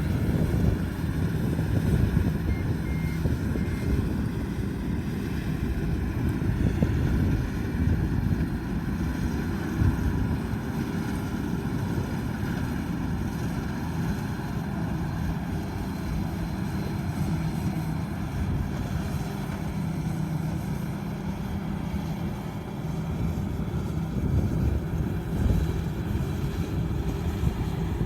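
Combine harvester's diesel engine and machinery running steadily.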